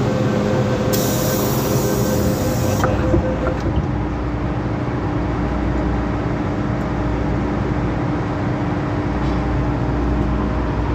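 MTR M-Train electric multiple unit running between stations, heard on board: steady rumble of the wheels on the track with a steady motor whine that drops to a lower pitch about four seconds in. A brief hiss comes about a second in and lasts about two seconds.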